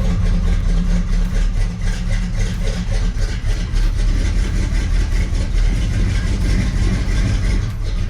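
Chevy Nova's small-block V8 idling steadily seconds after a cold start in freezing weather.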